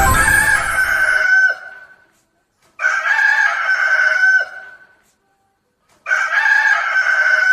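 Rooster crowing three times, each crow about a second and a half long and about three seconds apart, the crows nearly identical.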